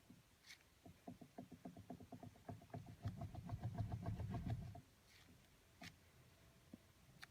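Clicking from behind the steering wheel of a 2008 BMW E61 with active steering as the wheel is turned slightly with the engine off: a fast, even run of clicks, about eight a second, for nearly four seconds with a low rumble under the second half, and a few single sharp clicks before and after. It is the unexplained fault noise the owner is trying to track down.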